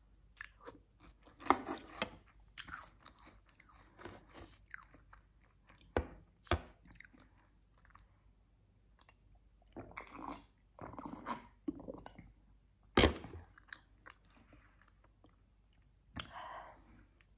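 Close-miked chewing and crunching of chocolate cereal eaten with chocolate milk, in irregular mouthfuls, with a few sharp clicks.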